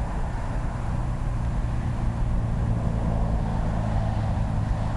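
Approaching diesel locomotive, its engine a low steady drone over a rushing noise, growing slightly louder.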